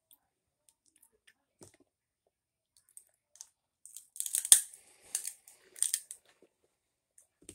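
Eating sounds close to the microphone: short clicks and smacks of chewing and of fingers at the mouth, sparse at first and then bunched together from about four to six seconds in, with one sharp louder smack among them.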